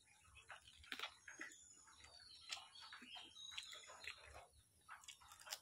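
Faint close-up eating sounds: wet chewing, lip smacks and small mouth clicks as a handful of rice and duck curry is eaten by hand.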